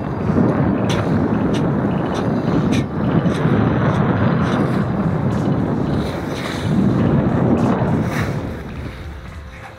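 Wind buffeting the microphone over the rush of water past a sailboat's hull under way, in uneven gusts with scattered faint clicks; the wind eases briefly near the end.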